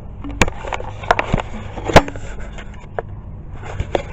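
Handling noises: a handful of sharp knocks and clicks, the loudest about two seconds in, with some rustling, as a small object is handled close to the microphone.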